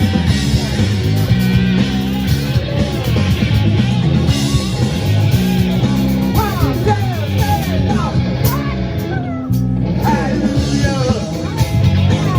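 A band playing an instrumental passage of an up-tempo rock/funk song: a steady bass line and drums, with bending lead guitar lines over them in the second half, and the cymbals and high end dropping out briefly about nine seconds in.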